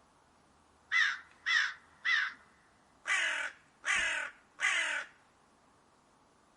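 An animal giving six harsh calls in a row: three short ones about half a second apart, then three longer ones.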